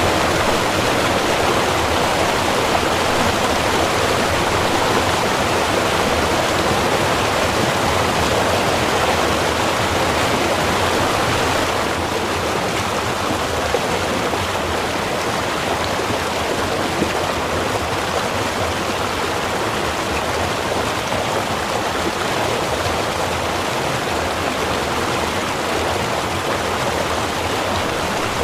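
Small river running steadily, a continuous rush of water that drops slightly in level about twelve seconds in.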